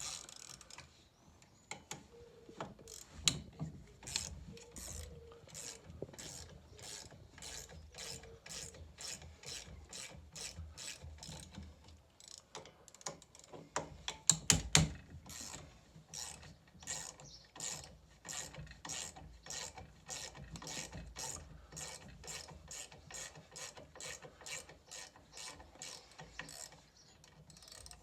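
Ratchet spanner clicking in a steady run, about two clicks a second, as the big bolts holding a stairlift gearbox on are worked loose. A few louder knocks come about fourteen to fifteen seconds in.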